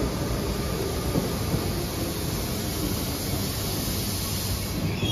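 SBB RABe 502 double-deck electric train (Bombardier Twindexx) rolling in to stop at an underground platform. Its wheels and running gear make a steady low rumble under a high hiss, and the hiss stops near the end.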